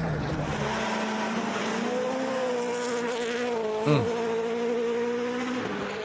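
Rally car engine held at high revs, a steady engine note that wavers slightly, with a short sharp pop about four seconds in.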